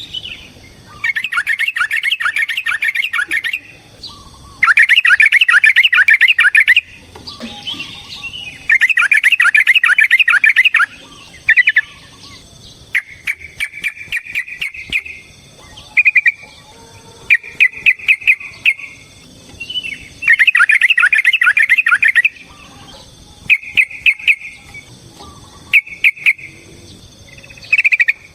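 Yellow-vented bulbul (trucukan) singing loudly in long runs of rapid, stuttering notes, each run about two seconds long, broken by shorter clipped calls and sharp clicks.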